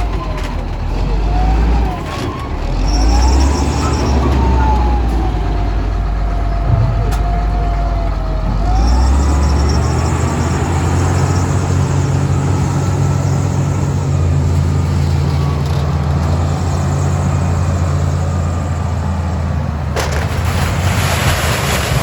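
A heavy diesel machine works under changing load, its engine rumble stepping up and down, with a wavering whine that glides up and down over it. A loud burst of hiss comes near the end.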